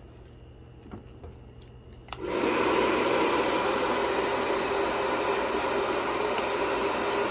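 Epsa 1023F 2400 W hair dryer starting with a click about two seconds in, then blowing with a steady rushing noise.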